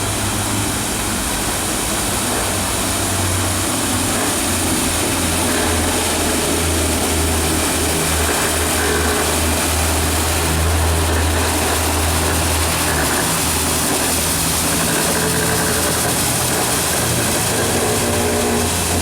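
Battery-powered ride-on floor scrubber running: a steady low motor hum over a broad hiss.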